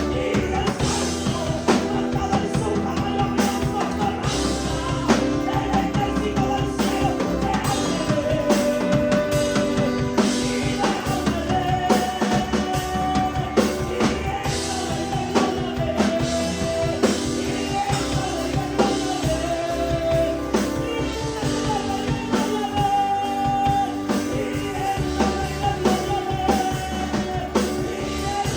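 Live worship band playing an upbeat chorus: drum kit, bass and guitar under a held melody line, continuous and loud.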